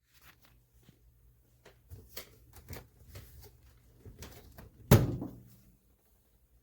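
A run of light knocks and clicks over a faint steady low hum, then one loud knock about five seconds in, like a door being shut, that rings out briefly.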